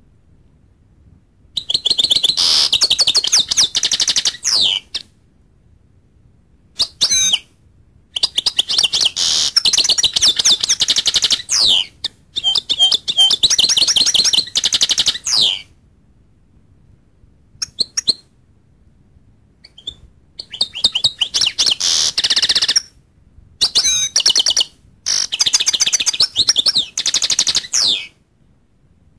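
Goldfinch singing: several long runs of rapid twittering trills and chirps, broken by short pauses.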